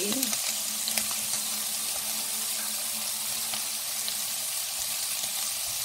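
Bacon and chicken sizzling in a nonstick wok: a steady frying hiss, with a few faint clicks from kitchen scissors snipping chicken into the pan.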